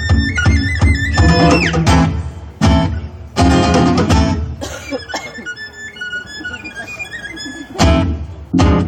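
Live gypsy-style music on violin and guitar. It opens with a fast run of notes, then breaks into separate strummed chords, with the violin playing sliding notes in the quieter gaps between them.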